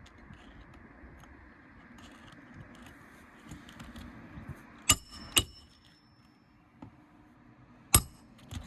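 Sharp metallic clinks of steel roofing tools, a flat bar and a roof snake, working the nails under asphalt shingles: two strikes about half a second apart around five seconds in, and two more near the end.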